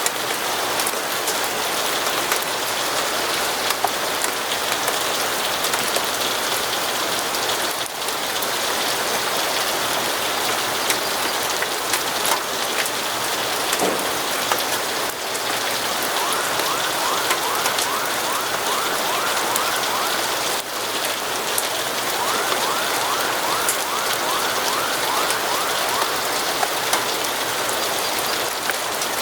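Steady rain falling, an even hiss with scattered drop ticks. In the second half, two short stretches of faint, rapid, repeated rising tones sound over it.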